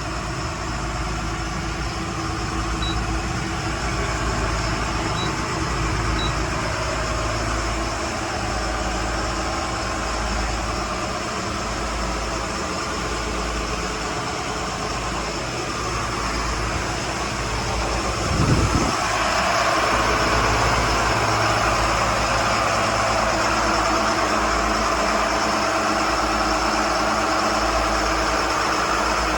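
A Bayliner 4788's twin diesel engines running steadily under way, a low drone. About two-thirds of the way through there is a brief loud swell, after which the engine sound stays louder and brighter.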